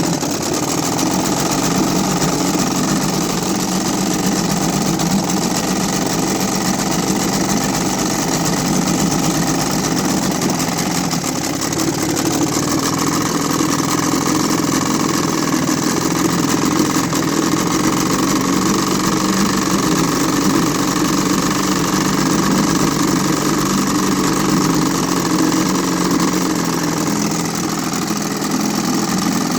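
1949 Hiawatha 5 hp two-cylinder outboard motor running steadily, its note shifting slightly about twelve seconds in. It is not reaching full revs, which the owner puts down to the motor being low on fuel.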